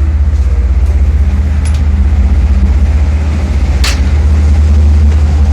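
River cruise boat's engine running with a steady, pulsing low drone. A single sharp click sounds about four seconds in.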